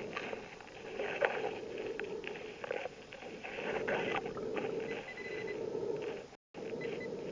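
Underwater ambience heard through a submerged camera: a steady hiss with scattered clicks and crackles. A short high electronic beep comes about five seconds in, and a run of quick beeps starts near the end.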